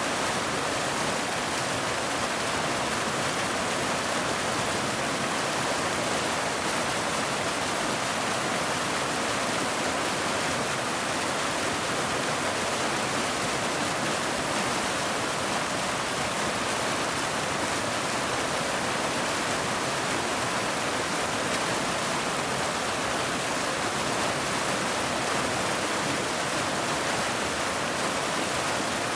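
Steady heavy rain: a dense, even hiss with no separate drops, thunder or breaks.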